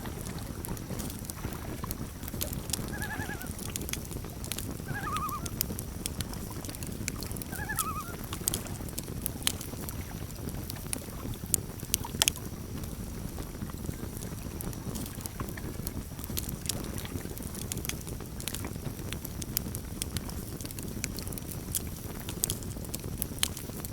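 Campfire crackling with scattered sharp pops over a steady low rumble, and a common loon giving short quavering calls four times in the first eight seconds.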